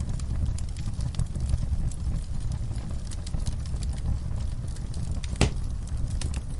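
Wood fire in a fireplace crackling over a steady low rumble of flames, with scattered sharp snaps and one louder pop about five and a half seconds in.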